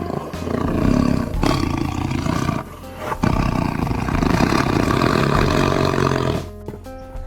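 Tiger roaring: two long, rough roars, the second starting about three seconds in.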